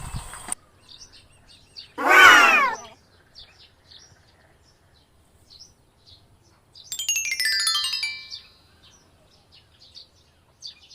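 Faint bird chirps scattered throughout, over a soundtrack of effects. A short burst of music ends at the start, one loud wavering pitched call comes about two seconds in, and a quick run of falling whistle tones follows around seven seconds in.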